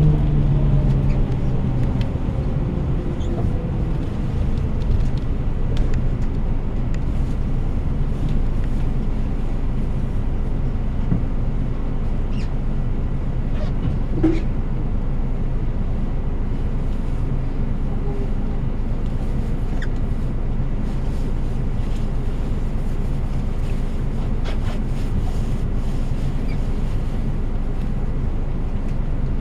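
Engine and road noise inside a moving bus: a steady low rumble, with the engine note falling away in the first couple of seconds. A few faint clicks sound over it.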